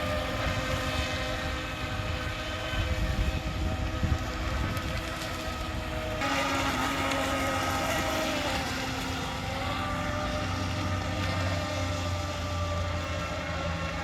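Pro Boat Shockwave 26 RC boat's electric motor whining steadily as the boat runs, over a rushing noise. The sound changes abruptly about six seconds in, and the whine then slides in pitch.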